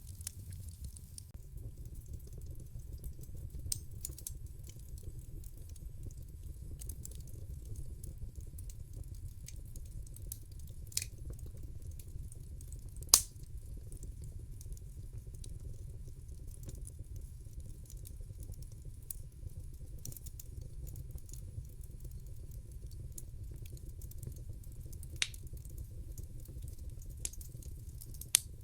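Wood fire burning in a fireplace: a steady low rumble of the flames with scattered sharp pops and crackles, the loudest pop about halfway through and another near the end.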